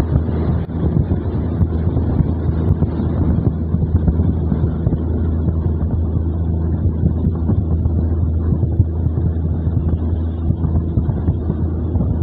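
Diesel train running at speed, heard from a carriage window: a steady low engine drone under the rush of wind and wheel noise.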